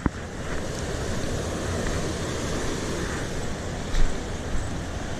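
Steady rushing of water pouring over a small creek spillway, with a little wind on the microphone.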